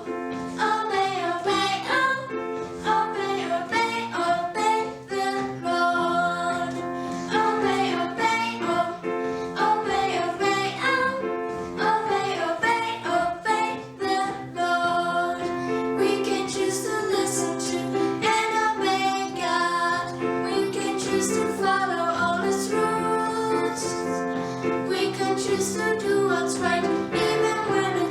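A children's worship song: singing with instrumental accompaniment and a steady beat.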